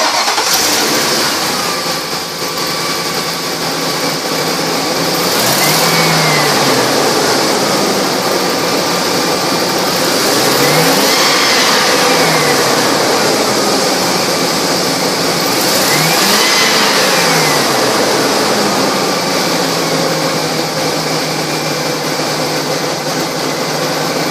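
2005 Ford E-250's 4.6 litre V8 engine idling, revved up and let back down to idle three times, about five seconds apart.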